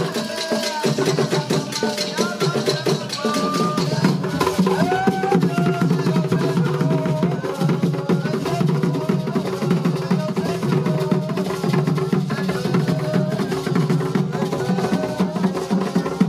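Drumming with a fast, dense rhythm of sharp, clacking percussion strokes, with voices singing or calling over it.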